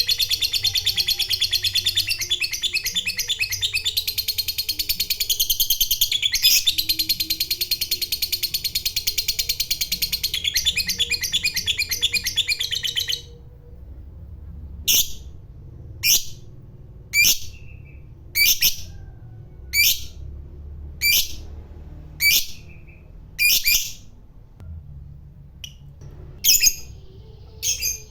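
Lovebird giving a long 'ngekek' (ngekek panjang): a rapid, unbroken chattering trill held for about thirteen seconds that stops abruptly. After it come single short, sharp calls roughly every second, with a short pause near the end.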